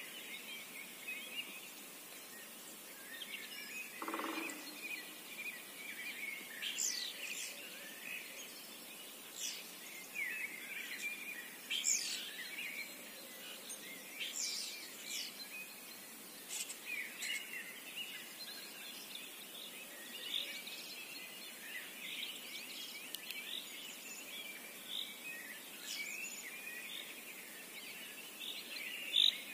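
Many small birds singing at once: overlapping high chirps and trills, with a short lower-pitched sound about four seconds in.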